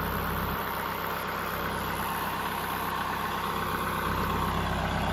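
A steady engine running at idle, an even hum that does not change.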